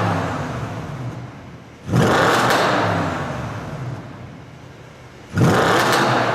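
BMW 645Ci's V8 through a loud custom exhaust (not straight-piped), revved sharply twice, about 2 s and 5.5 s in, each rev dying away over a few seconds back toward idle.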